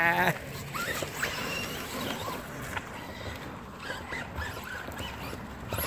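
RC trucks' brushless electric motors whining in short, faint revs, each a brief rising or falling squeal, over a haze of tyres churning through mud.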